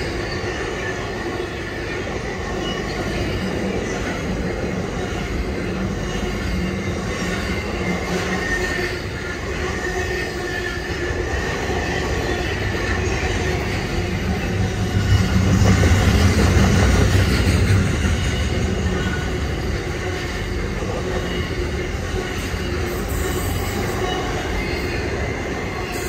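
Container wagons of a freight train rolling past, a steady rumble of steel wheels on rail with thin steady squealing tones from the wheels. The rumble swells for a few seconds about two-thirds of the way through.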